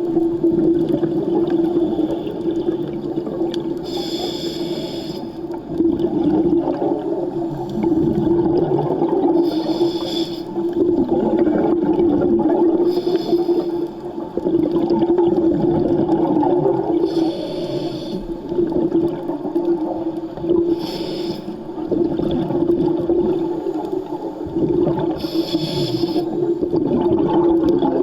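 Underwater sound of a scuba diver's regulator, with six short hissing bursts of exhaled bubbles every few seconds over a steady low hum.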